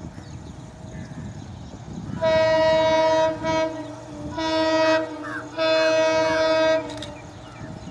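Indian Railways EMD diesel locomotive horn sounding several blasts: a long one, a short blip, then two more, each a steady multi-note chord, over the low rumble of the train.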